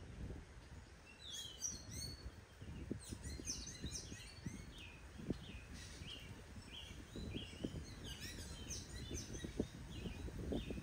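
Birds chirping: many short, repeated downward-sliding notes, starting about a second in and coming thickly from about three seconds on, over a low rumbling background.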